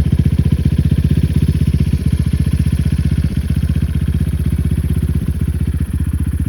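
Dirt bike engine running steadily at low speed, an even, fast train of exhaust pulses.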